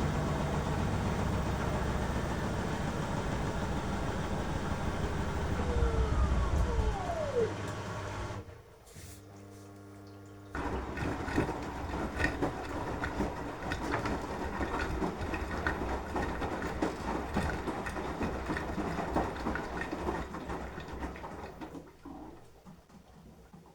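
Beko washing machine running mid-cycle: the drum motor hums with a falling whine and stops about eight seconds in. After a short near-quiet pause the drum turns the wet wash again with a sloshing, clattering sound that fades away near the end.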